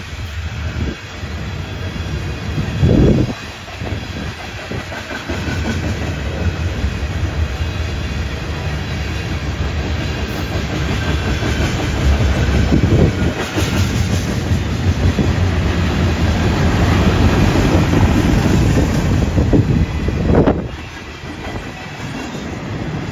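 Freight train of tank cars rolling past: a steady rumble of steel wheels on the rails, swelling louder a few times.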